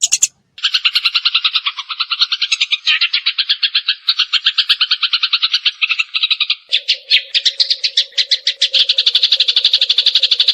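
Eurasian tree sparrow chattering in a rapid, unbroken run of chirps, about ten a second. A lower steady note joins about two-thirds of the way in.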